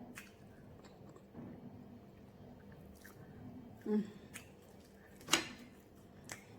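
A person chewing a mouthful of ogbono soup and meat close to the microphone: soft wet chewing and squishing with scattered mouth clicks, a brief hum just under four seconds in and a sharp lip smack a little over five seconds in.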